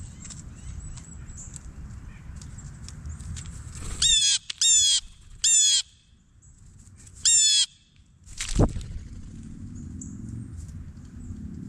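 Four harsh, rolling bird calls, each about half a second long: three in quick succession and then one more. A sharp thump follows about a second after the last call.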